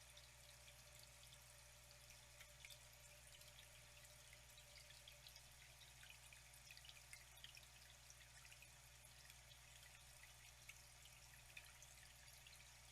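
Faint trickling, flowing water with many small drips and splashes ticking over a steady wash.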